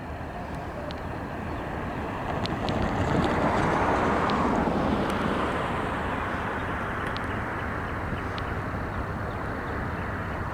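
Low, steady rumble of an approaching freight train led by GE diesel locomotives, swelling to its loudest about three to five seconds in, with wind noise and faint high chirps.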